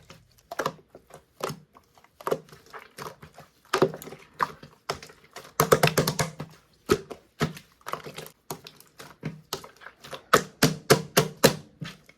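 Clear slime being squished and pressed by hand, giving irregular wet clicks and pops, with fast runs of pops about halfway through and again near the end.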